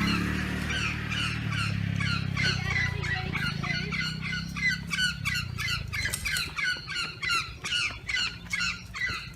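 Birds squawking: a rapid run of short, shrill calls, several a second, from a group of birds, over a low steady hum that fades about halfway through.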